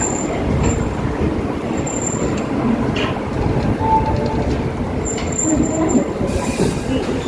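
Steady rumble of a passenger train at the station.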